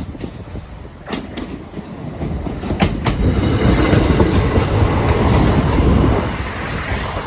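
A train passing over a level crossing. First come sharp wheel clicks over the rail joints, then a rumble that builds to its loudest in the middle and eases off near the end.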